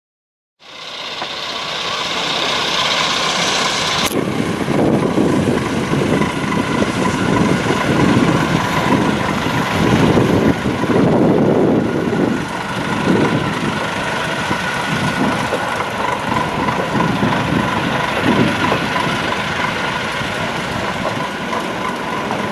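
Narrow-gauge light railway train running, a steady engine sound with a constant hum and an uneven rumble beneath it. It starts suddenly just after the beginning.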